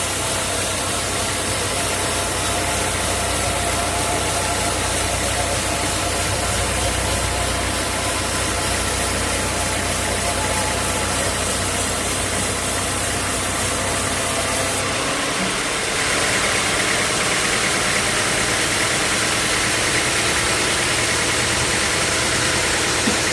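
Sawmill machinery running steadily with a deep hum. About two-thirds of the way through, the low hum drops away and a brighter, higher-pitched noise takes over.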